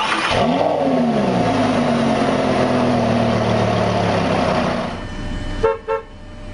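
Lamborghini Gallardo Superleggera's 5.2-litre V10 revved once: the pitch climbs sharply in the first second, then the revs fall back slowly over about four seconds before the sound drops away. A short beep sounds near the end.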